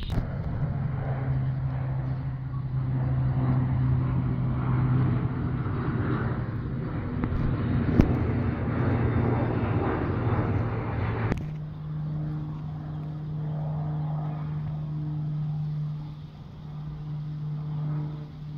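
Propeller aircraft engine droning steadily. About eleven seconds in the sound cuts abruptly to a higher, cleaner engine drone, with a sharp click a few seconds before.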